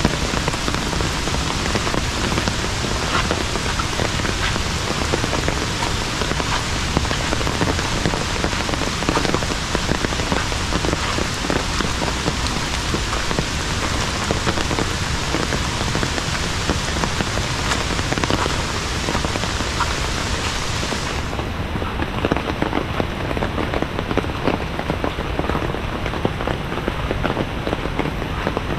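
Heavy rain falling steadily, a dense patter of drops. About three quarters of the way through, the sound suddenly turns duller as its highest hiss drops away.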